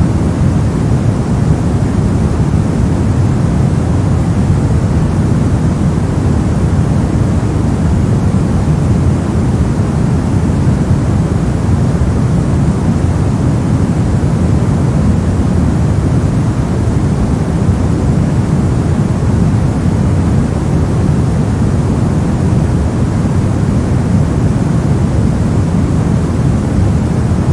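Continuous generated white noise: a steady, unchanging rush with no events, heaviest in the low range.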